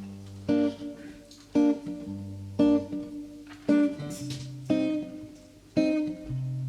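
Acoustic guitar strumming chords in a slow, even rhythm, one sharp strum about every second, each chord ringing on over a low held note.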